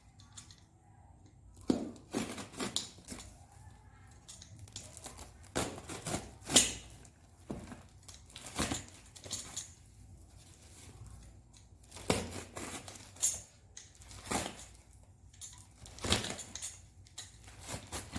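A parcel being unwrapped by hand: irregular rustling, tearing and crinkling of packaging wrap, with scattered sharp handling noises.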